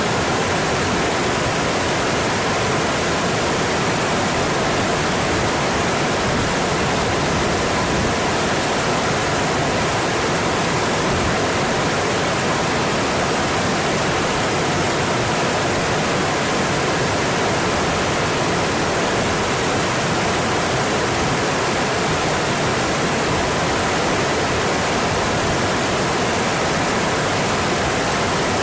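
Mountain stream flowing over rocks: a steady, even rush of water that does not change.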